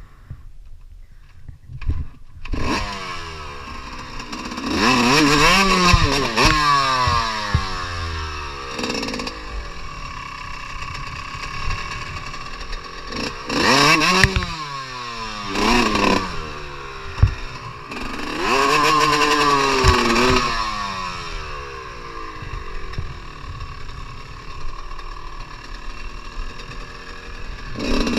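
Motocross dirt bike engine revving, its pitch climbing and dropping again and again as the throttle is opened and closed, with occasional knocks. It starts about two and a half seconds in.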